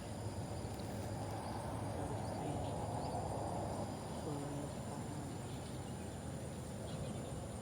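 Outdoor ambience: a steady low rushing noise with a continuous high-pitched insect drone over it. A brief faint call comes about four seconds in.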